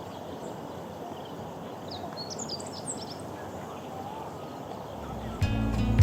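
Meadow bunting singing a brief, rapid phrase of high chirping notes about two seconds in, over a steady hiss of outdoor background noise. Background music comes in near the end.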